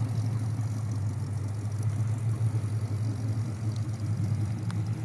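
Classic car engine running at low revs, a steady low rumble.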